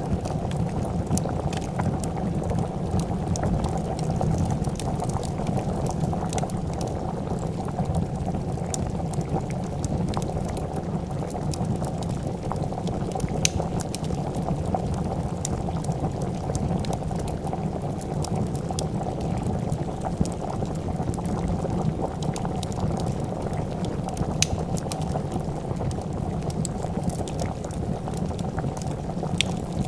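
A pot of soup boiling steadily, with a dense, even bubbling, and the occasional sharp crackle and pop of a wood fire.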